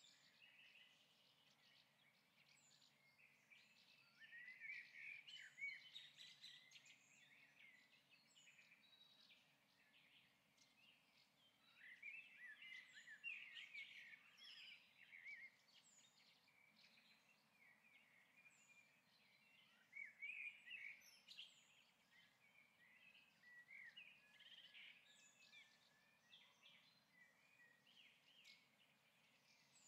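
Faint birdsong: small birds chirping and twittering in bursts every several seconds, over a low steady hiss.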